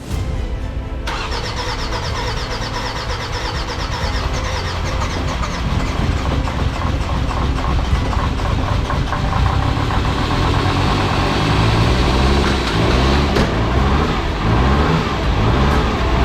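Mercedes OM612 2.7 L five-cylinder common-rail diesel cranking for about a second, then catching and running steadily. This is the first start of the freshly rebuilt engine, running on its old injectors.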